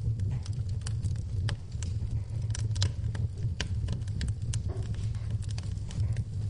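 Wood fire burning in a fireplace: a steady low rumble of flames under frequent, irregular crackles and pops from the burning logs.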